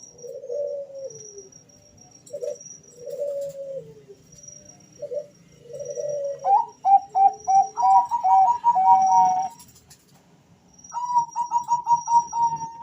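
Two male zebra doves of the Bangkok song strain cooing back and forth: three soft falling coos, then rapid trilled runs of short staccato coo notes a little past halfway and again near the end. Faint high chirps repeat in the background.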